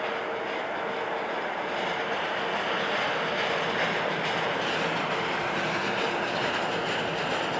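Railway work draisine, a motorised track maintenance vehicle, rolling along the rails as it pulls into a station: a steady running noise of engine and wheels on track, growing slightly louder toward the end.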